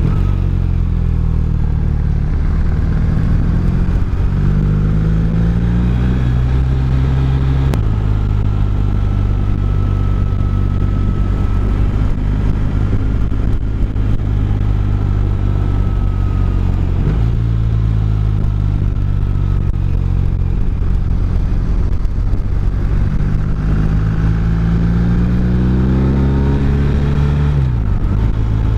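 Motorcycle engine running under way, rising in pitch as it accelerates. The pitch drops suddenly about eight seconds in and shifts again around seventeen seconds, as at gear changes, then climbs again near the end.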